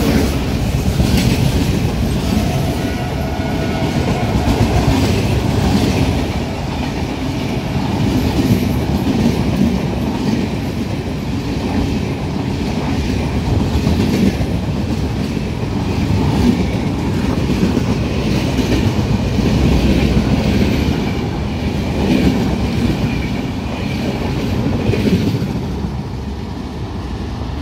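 Passenger train coaches passing close at speed: a loud, continuous rumble and rush with the repeated clatter of wheels over rail joints, easing off near the end as the last coach goes by.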